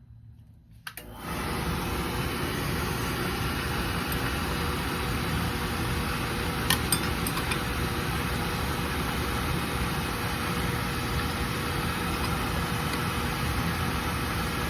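Oil burner on an oil-fired boiler starting up after a lockout reset. A click about a second in, then the burner motor and fire run with a steady, loud rush and a faint hum, and a couple of sharp ticks about halfway through.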